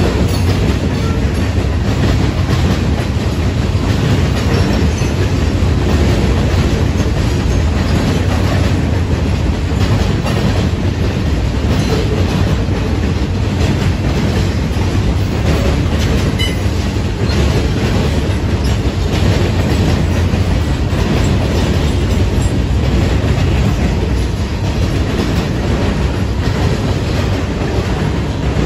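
A freight train's boxcars and autorack cars rolling past, a steady rumble of steel wheels on the rails with a running clatter of clicks as the wheels cross the rail joints.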